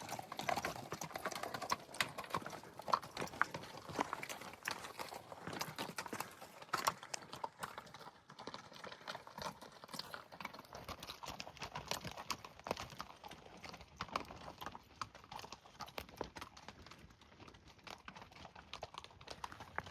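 Footfalls on hard, rocky ground: a run of irregular sharp clicks and knocks.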